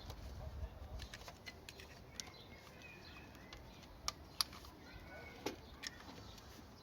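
Faint birdsong chirping, with a few sharp clicks and taps from hand work on the motorcycle; the loudest two come close together about four seconds in.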